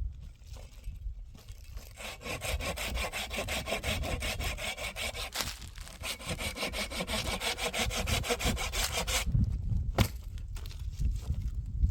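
A saw cutting through wood with a fast, even rasp that starts about two seconds in and stops about nine seconds in, with a short break midway. There is a sharp click near the end.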